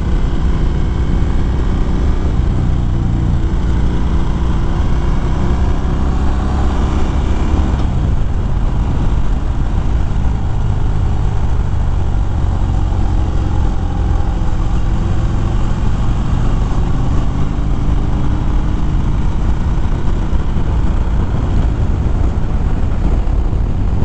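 Harley-Davidson Fat Bob's V-twin engine pulling along the road, heard over heavy rushing wind on the rider's microphone. About eight seconds in the engine note drops off, then rises again.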